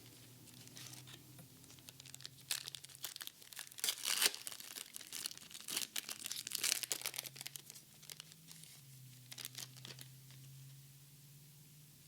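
A Pokémon booster pack's foil wrapper being torn open and crinkled by gloved hands: a run of crackling tears and crinkles, loudest about four seconds in, that dies down after about ten seconds.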